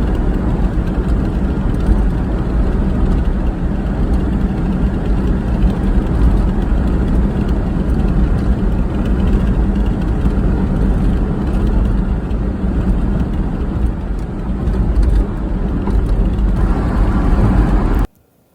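Car being driven: a steady low rumble of engine and road noise that cuts off suddenly shortly before the end.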